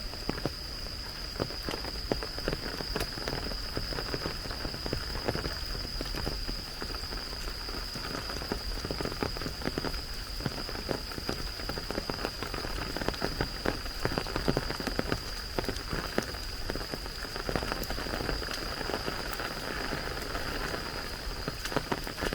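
Steady rain with many separate drops striking close by, alongside a thin, steady high-pitched tone.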